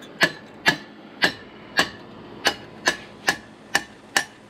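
Hammer blows driving a bent lower control arm (A-arm) off a Can-Am Maverick X3 UTV: about nine sharp strikes, roughly two a second, each with a brief ring, as the seized arm is knocked free.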